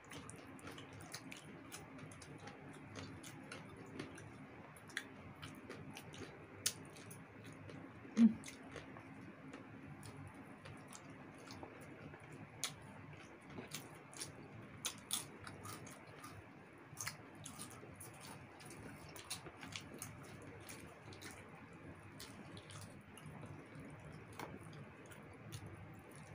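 Close-miked eating sounds of two people chewing roast chicken: scattered wet mouth clicks and lip smacks over a faint steady background, with one brief louder low sound about eight seconds in.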